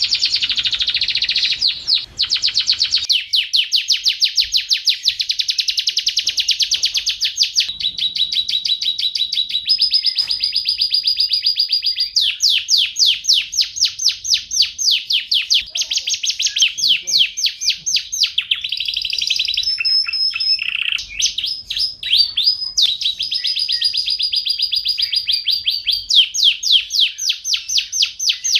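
Domestic canary singing continuously: fast rolls of repeated high notes that switch to a new phrase every second or two, with a brief pause about two seconds in.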